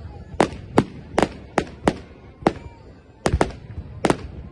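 Fireworks going off: an irregular string of about ten sharp bangs, some coming in quick pairs.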